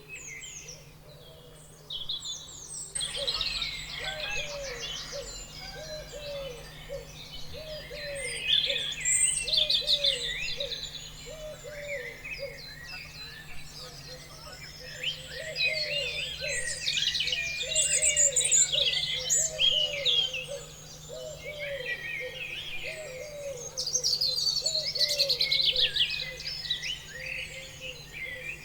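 A chorus of many small birds chirping and trilling at once, growing fuller about three seconds in, over a lower short note repeated about twice a second.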